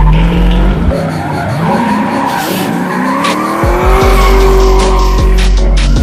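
Drift car engine revving up, then held at high revs, with tires squealing as the car slides.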